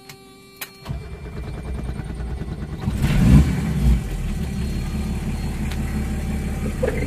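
A 1982 Volvo diesel engine, moderately warm and with its glow plugs used, being cranked and started: a click, then about a second in the starter turns it over, the engine catches around three seconds in with a brief rev, and it settles into a steady idle.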